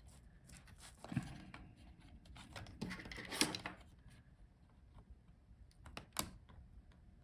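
Faint handling noises from a laptop's heatsink and fan assembly being lifted out: light clicks and scrapes about a second in, a louder scraping click around the middle, and another click near the end.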